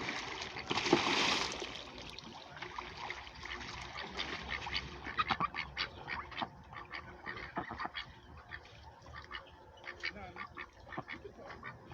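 Domestic ducks quacking, with many short calls scattered throughout. A brief rush of noise comes about a second in.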